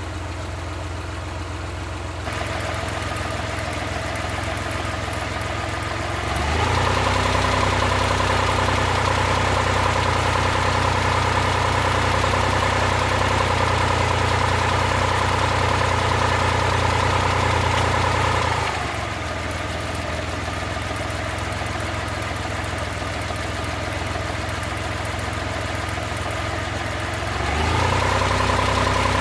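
Suzuki F6A three-cylinder engine idling, then held at a higher steady speed from about six seconds in, dropping back to idle some twelve seconds later and rising again near the end.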